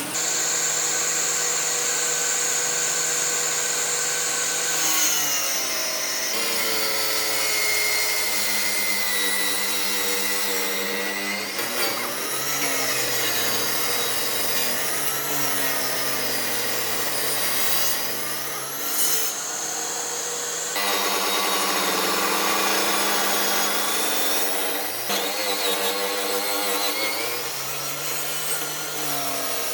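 Electric woodworking power tools running and cutting wood, their motor pitch dipping and recovering as they take load, changing abruptly several times from one tool or cut to another.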